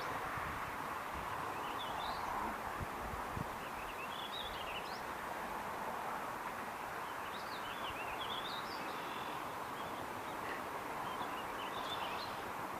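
Birds chirping off and on over a steady outdoor background hiss.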